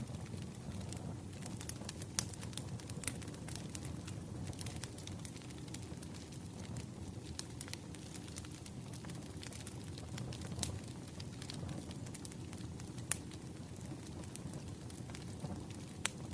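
Wood fire burning: a steady low rumble with irregular, sharp crackles and pops.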